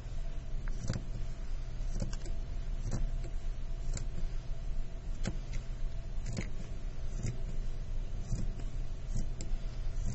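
Fabric scissors snipping through fabric, one blade sliding along the table, about one cut a second, over a steady low hum.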